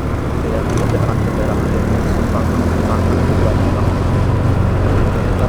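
Motorbike engine running steadily while riding, under an even rush of wind and road noise.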